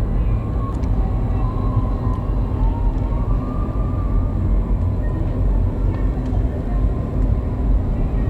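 Steady low rumble of a river cruise ship under way, heard from its deck, with faint wavering distant voices on top.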